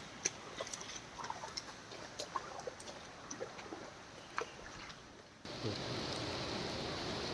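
Quiet outdoor ambience with scattered small clicks and short chirps, then an abrupt cut, about five seconds in, to a louder steady rush of water, like rain or a flowing stream.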